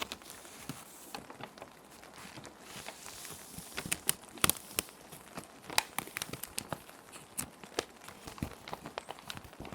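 Plastic sheet protectors crinkling and crackling as paper sheets are slid in and handled: many sharp, irregular crinkles, densest a few seconds in. Soft rain hiss underneath.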